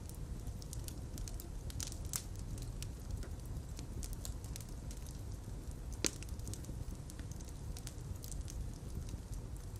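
Fire crackling in a fireplace: a steady low rumble of flames with scattered small crackles and one sharper pop about six seconds in.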